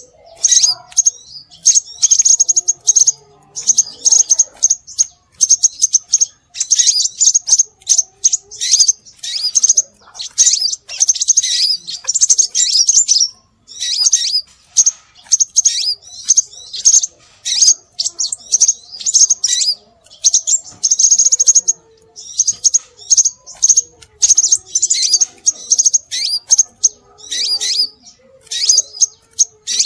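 Scarlet minivet calls: rapid, high, thin chirps and twitters in dense runs, broken by brief pauses.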